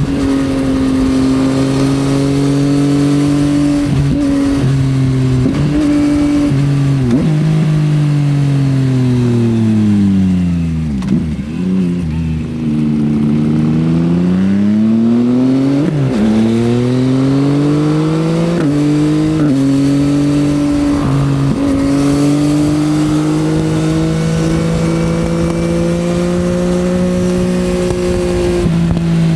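Yamaha XSR900's three-cylinder engine through an Akrapovič exhaust, heard from the rider's seat: revs fall with quick downshift blips into a slow corner, then climb again through several upshifts and settle into a steady cruise. Wind rushes over the microphone throughout.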